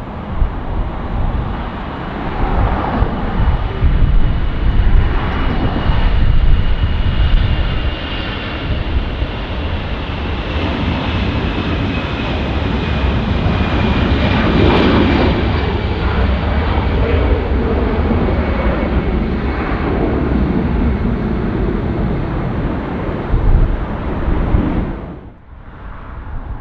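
Jet airliner's engines passing close by, a loud roar with a thin whine that slowly falls in pitch. The roar drops away suddenly near the end.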